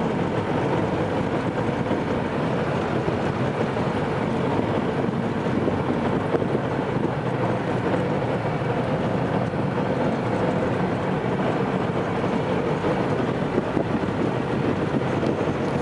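Jet boat running at a steady speed: a constant engine drone mixed with water rush, with no change in pitch or level.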